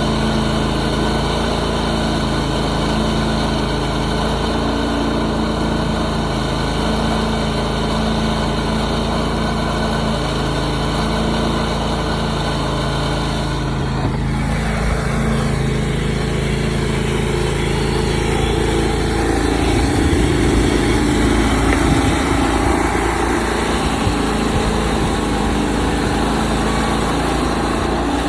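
Portable sawmill's gasoline engine running steadily. About halfway through its pitch drops and the sound turns rougher, with more low rumble and slightly louder running after that.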